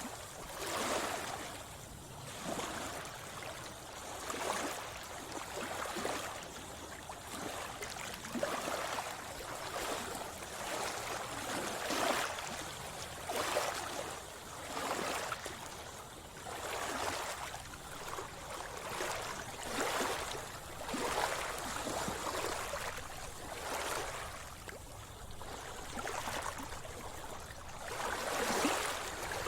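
Sea water splashing and sloshing in repeated surges about once a second, as a swimmer moves through the water.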